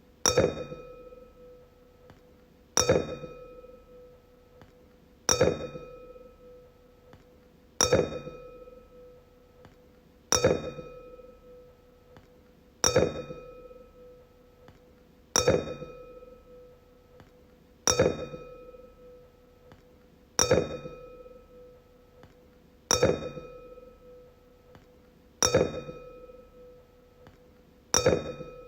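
A wine glass struck over and over, about once every two and a half seconds, a dozen times. Each tap rings out on one clear pitch with fainter higher overtones and fades away before the next.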